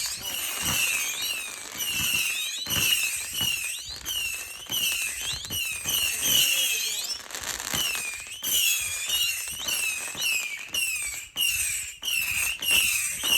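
Fireworks finale: many whistling fireworks going off one after another, overlapping wavering whistles with sharp pops between them.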